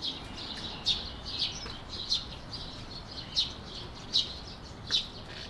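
A flock of budgerigars settled on their night roost, giving short, scattered chirps, a dozen or so over a few seconds, over a faint low background hiss.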